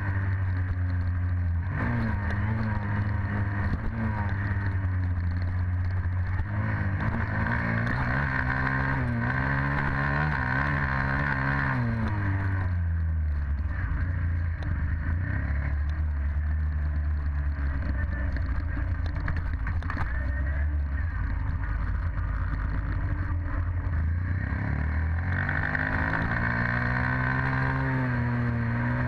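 Dirt bike engine running continuously, its pitch wavering up and down with the throttle. It falls to a lower pitch about twelve seconds in and climbs again near the end.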